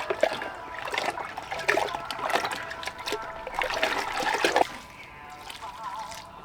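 Water splashing and trickling in uneven spurts, as if poured or sloshed by hand, stopping suddenly about four and a half seconds in.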